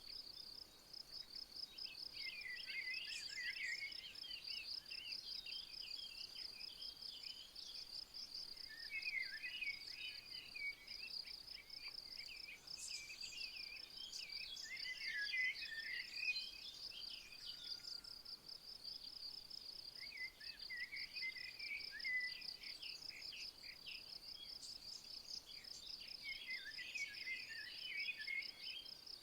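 A cricket's steady, rapidly pulsing trill, with a songbird singing short twittering phrases over it every few seconds.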